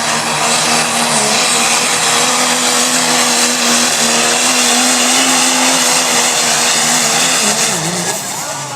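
Turbo-diesel pickup engine running flat out under load as it drags a pulling sled, a steady high-revving drone with a high whine on top. About two-thirds of the way through, the revs fall away as the pull ends.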